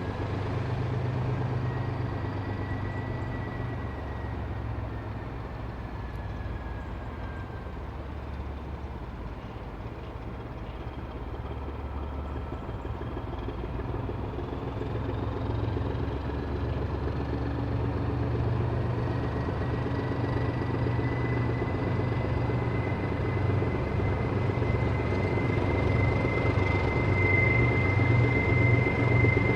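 Diesel locomotive engine running with a steady low drone that grows gradually louder, and a thin high whine that strengthens in the last few seconds.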